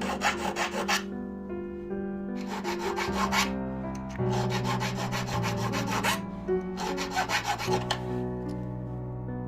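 Hand file scraping a small silver rod in four quick runs of rapid back-and-forth strokes with short pauses between them, shaping the rod. Soft background music with held notes plays underneath.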